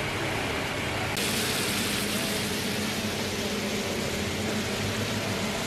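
Beef liver and tomatoes sizzling steadily on a wide flat tawa griddle over a constant hum of street traffic and engines; the sizzle turns louder and brighter about a second in.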